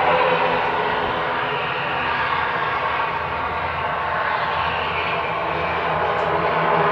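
Dornier 328 twin-turboprop engines and propellers running during landing: a steady drone with a hum of propeller tones, easing slightly mid-way and growing louder again near the end.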